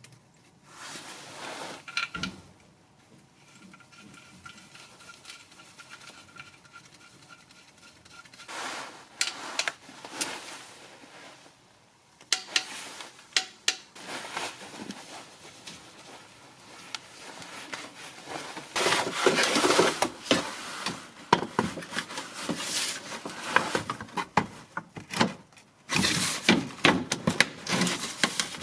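Hand work with tools and parts: irregular clicks, light knocks and rubbing scrapes, getting busier and louder in the last third.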